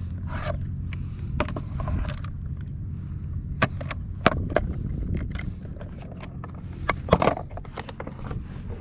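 Scattered knocks, clicks and scrapes from handling fishing gear on a kayak while a trout is landed, with a cluster of knocks near the end, over a steady low hum.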